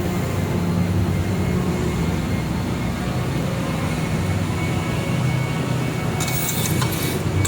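Steady low hum of an air-cooled handheld laser welder's cooling unit running, with a short hissing crackle about six seconds in.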